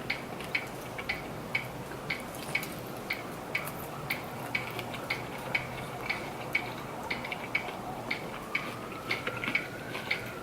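A clock ticking steadily, about two ticks a second. Near the end a faint tone rises and then falls.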